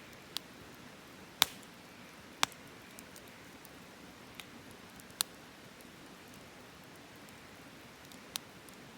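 Wood campfire burning with a steady low hiss and irregular sharp crackling pops, about six in all, the two loudest a second apart near the start.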